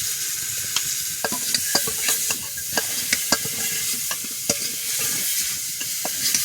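Mushrooms sizzling as they fry in a pan, with a steady hiss and irregular clicks of a utensil tapping and scraping the pan as they are stirred.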